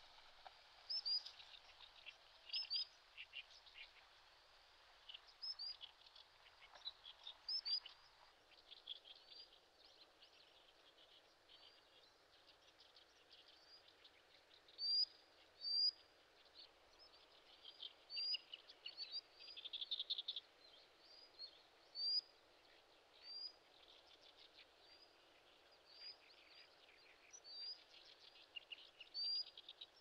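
Short, high bird calls repeated every second or two, some coming as quick little clusters of notes, over the steady hiss of flowing river water.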